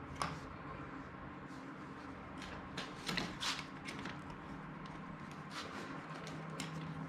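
Plastic seat trim being handled and fitted onto a car seat: scattered light clicks and scrapes, busiest about three seconds in.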